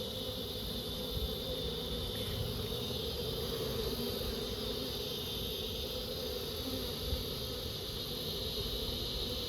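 Honeybees buzzing as a mass around a freshly moved colony: a steady, unbroken hum with a low rumble underneath.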